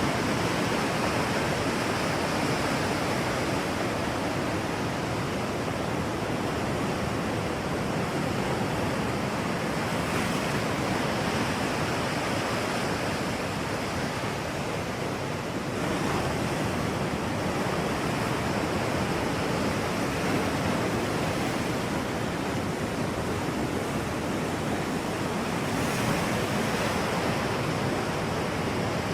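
A steady rushing noise that swells and eases slowly.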